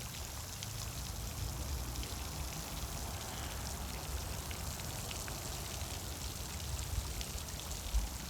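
Steady wash of water, with a low rumble underneath and two faint knocks near the end.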